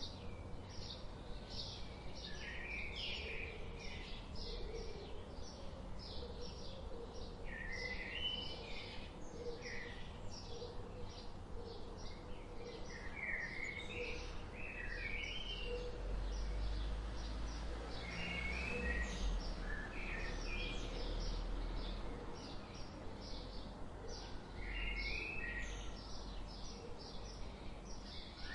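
Several small songbirds chirping and twittering in quick short notes, over a steady low background rumble that swells in the middle.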